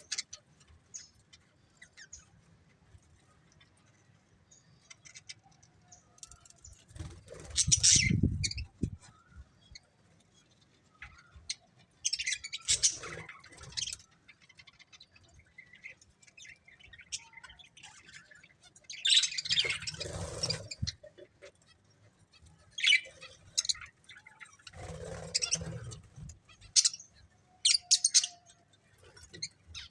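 Pet budgerigars chirping and chattering in scattered bursts of short, high calls, with stretches of quiet between them. About eight seconds in, one burst comes with a low rumbling thump underneath.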